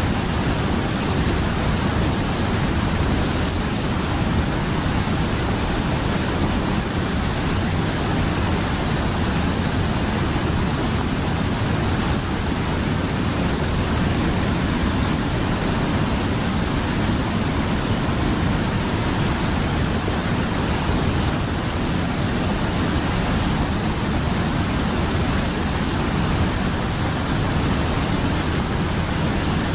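Mountain river rushing steadily over rocks: a dense, unbroken wash of flowing water.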